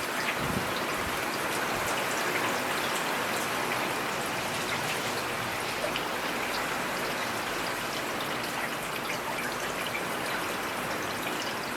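Steady rain falling, a constant hiss with many individual drops tapping through it.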